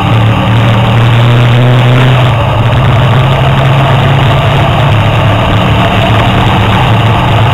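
Sports car's engine pulling hard under full acceleration at high speed, heard from inside the cabin as a steady low drone over wind and road noise.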